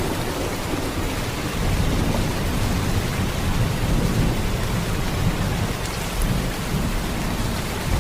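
Heavy rain falling in a steady downpour, an even wash of noise with a deep low rumble and no separate claps.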